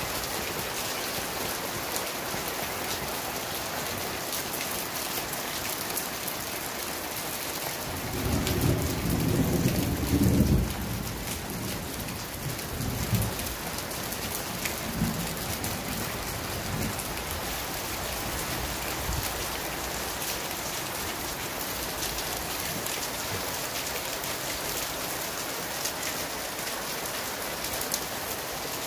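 Heavy rain falling steadily on a garden, with a low rumble of thunder about eight seconds in that swells for two seconds and stops abruptly, followed by a few fainter rumbles.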